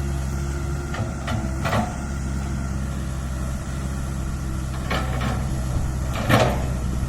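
Komatsu PC160-8LC excavator's diesel engine running steadily while the machine works, with several short clanks and knocks, the loudest about six seconds in.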